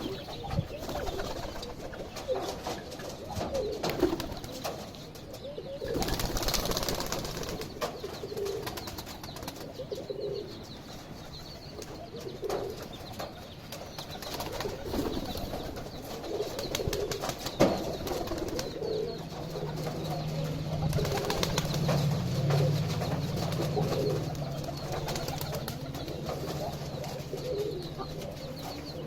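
A hen clucking softly and repeatedly while feeding on cabbage, with scattered sharp pecking taps. A steady low hum comes in about two-thirds of the way through.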